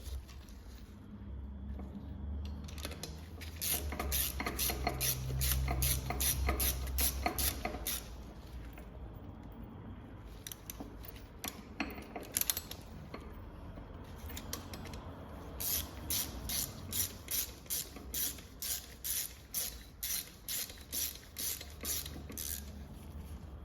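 Ratchet wrench clicking in short repeated strokes, in two spells, over a low steady hum.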